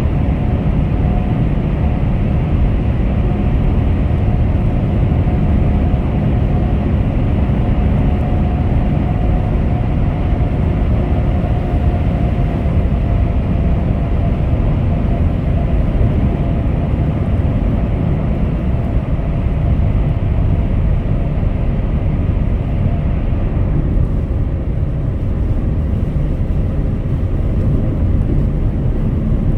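Car driving steadily at highway speed: an even low rumble of road and engine noise with a faint whine that drifts slightly lower.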